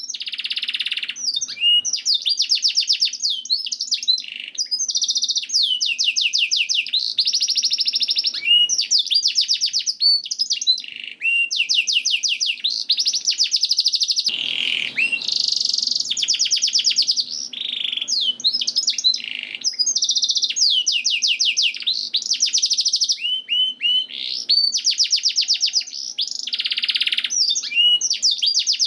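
Domestic canary singing a long, continuous song of fast trills and rolls, one phrase running straight into the next, as used for a song-training recording.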